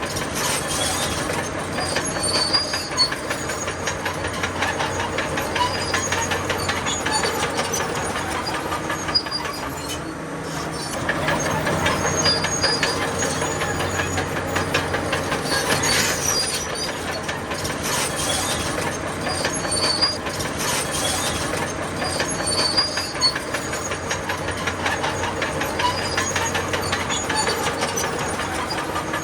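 Crawler bulldozer working: the diesel engine runs under load while the steel tracks clatter and squeal, the sound swelling and easing every few seconds as it pushes.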